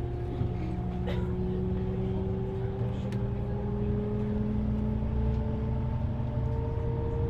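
Shuttle bus running with a steady low rumble, its whine rising slowly in pitch as it gathers speed, heard from inside the bus.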